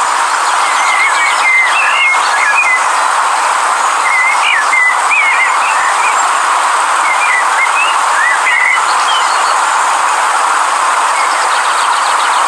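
Steady rushing of a river, with a songbird singing short warbling phrases over it in three bouts.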